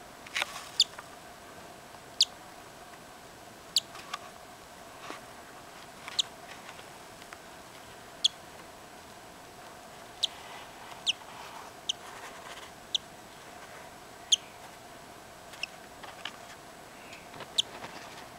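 Newly hatched cockatiel chick peeping: short, high, thin calls at irregular intervals, roughly one every second or so.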